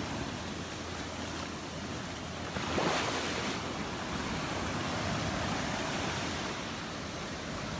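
Gulf of Mexico surf washing onto the beach: a steady rush of waves, with one louder surge about three seconds in.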